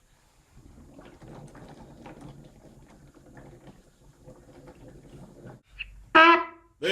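A person's voice: a short, loud vocal sound near the end, after several seconds of faint, indistinct room noise.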